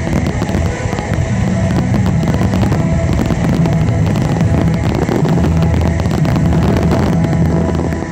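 Dense fireworks barrage, a rapid string of bangs and crackling bursts, with the show's music playing underneath in low held notes.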